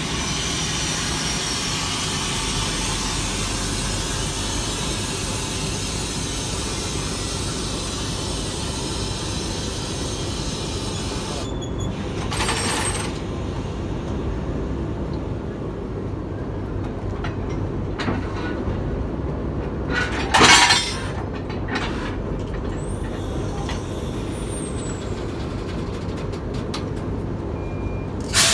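TEP70BS diesel locomotive running steadily at a standstill, with short bursts of compressed-air hiss from the train's air brakes, the loudest about two-thirds of the way through, and a few sharp clicks.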